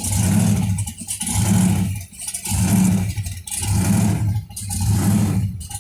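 Blown (supercharged) engine of a 1957 Chevrolet running with a steady rhythmic surge, swelling and dropping about once a second. The driver puts this down to the blower building pressure that the engine lets out through its firing order.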